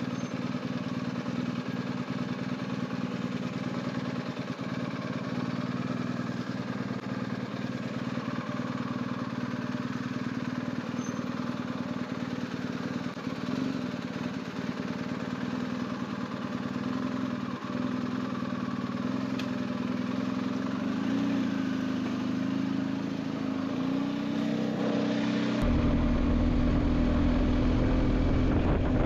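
BMW R1250GS boxer-twin engine running steadily under way, its note bending up and down a little in the last few seconds. Near the end, a loud low wind rumble on the microphone comes in.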